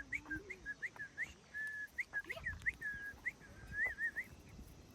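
Puppy whining and whimpering: a run of short high rising whines mixed with a few longer held ones.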